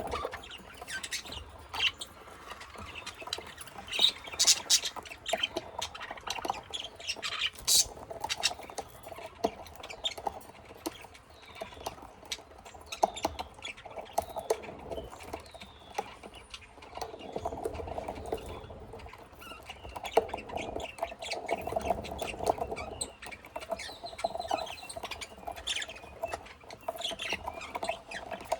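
Pet budgies and lovebirds chirping and chattering in a cage, with a steady run of quick high chirps and sharp little clicks and scratches from the birds moving about.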